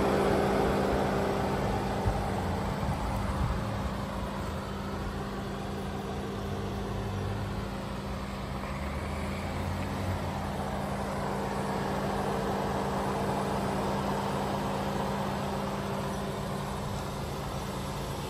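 A car engine idling steadily, with a brief tap about two seconds in.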